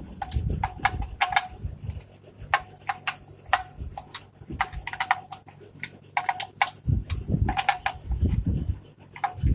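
Irregular sharp clicks and knocks, many with a short ringing tone after them, like hard objects striking metal. A low steady hum runs under them through the middle.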